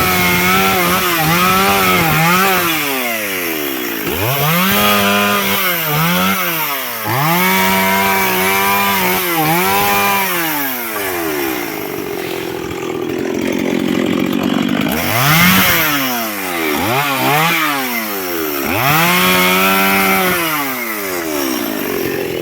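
Chainsaw cutting firewood: the engine revs up to full throttle and drops back over and over as it bites through the wood, settling to a lower, steadier run for a few seconds in the middle.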